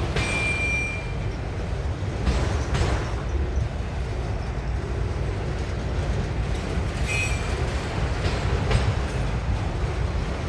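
Freight train rolling past: a steady low rumble of railcars, with wheels clacking over a rail joint in pairs twice, and brief high wheel squeals near the start and about seven seconds in.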